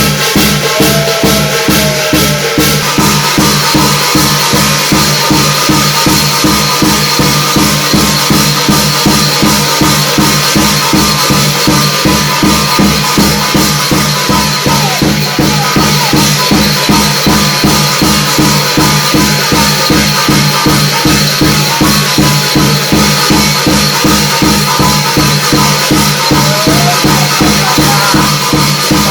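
Korean shaman ritual (gut) music: a drum beaten in a fast, even rhythm of about three strokes a second, with shaken bells or rattles and a shimmering metallic wash over a steady low drone.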